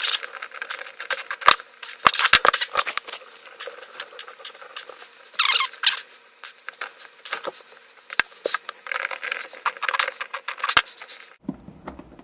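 Irregular clicks, knocks, rattles and brief squeaks of hands and a tool working at a dishwasher's drain hose connection to undo it.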